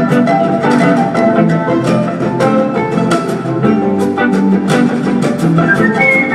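Instrumental music with no singing: quick plucked string notes over sustained bowed string tones.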